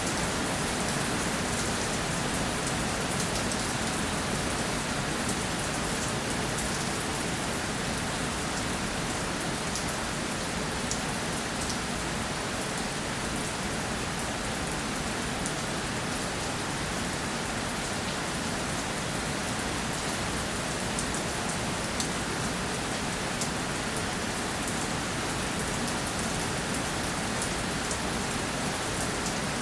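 Steady rainfall, a constant hiss of rain with scattered individual drops ticking on a surface.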